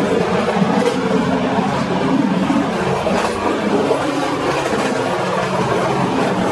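Passenger train running along the track at speed: a steady rumble of wheels on rails.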